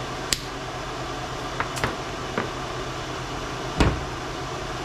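Steady mechanical hum of a fan or air conditioner, with a few sharp clicks and a heavier knock about four seconds in as the jetting hose is handled for cutting.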